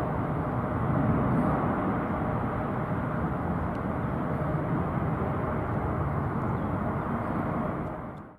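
Jet engine roar from a Boeing 777-300ER's GE90 turbofans, a steady broad rumble that eases slightly, then fades out quickly near the end.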